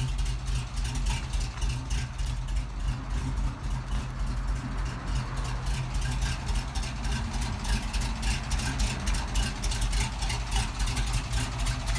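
A 1971 Ford F700's 361 cubic inch Ford FE V8 engine idling steadily.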